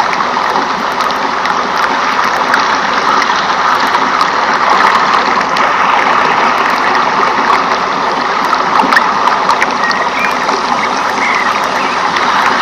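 Steady rush of flowing water, like a stream, with a few faint short chirps about ten seconds in.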